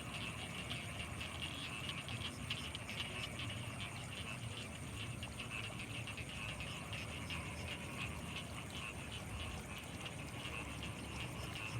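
Night chorus of frogs and insects calling without pause: a dense, fast-pulsing trill with a thin steady high whine above it and a low rumble underneath.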